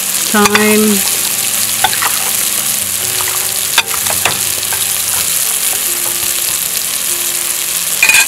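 Curry paste frying in oil in a pot, a steady sizzle, with a metal spoon clinking against a glass bowl a few times as seasoned raw chicken is mixed.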